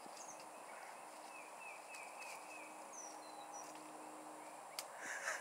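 Quiet outdoor ambience with faint birdsong: a run of about five short falling chirps, then a few higher, thinner chirps. A single click and a short rustle come near the end.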